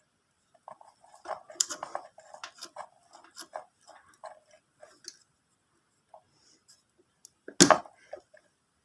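Close-up handling of motorcycle wiring and a plastic connector: a run of small irregular clicks and crunches, then one loud sharp snap near the end.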